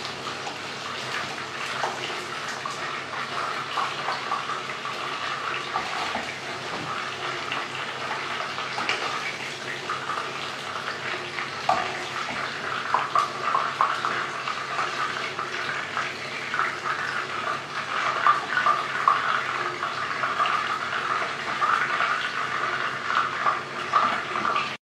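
Battered chicken pieces deep-frying in hot oil: a steady sizzle with crackling and spitting that gets louder and busier in the second half.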